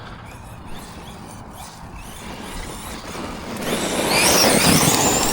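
Arrma Notorious 6S RC monster truck driving at speed, its brushless motor whine wavering in pitch over tyre and dirt noise that swells loud about three and a half seconds in.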